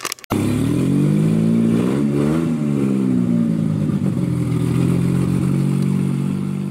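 A car engine starts abruptly, is revved once about two seconds in so the pitch rises and falls, then settles back to a steady idle.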